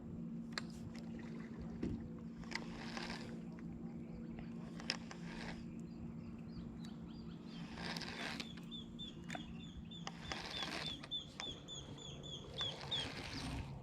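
Kayak on a lake: soft water swishes every couple of seconds over a low steady hum, with scattered light clicks. In the second half a bird gives a quick run of short, repeated high chirps.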